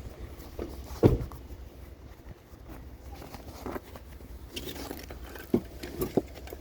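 Vehicle cabin noise while driving: a steady low road rumble with scattered short knocks and rattles, the loudest thump about a second in.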